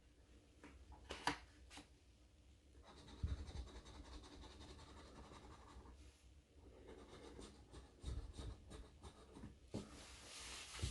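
Faint, on-and-off scratching and rubbing of a scratch-off lottery ticket's coating, with a few light taps.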